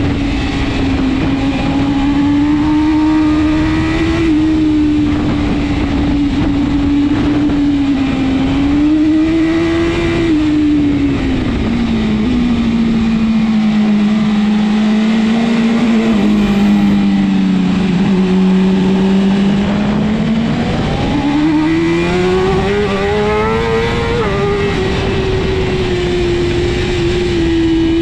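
BMW S1000RR superbike's inline-four engine at racing speed, its pitch rising and falling. The pitch drops lowest around the middle, then climbs sharply again near the end, over a steady rushing noise.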